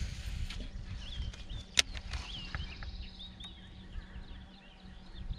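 Small birds chirping in a rapid run of short, curved calls, over a low rumble. A single sharp click stands out a little before two seconds in.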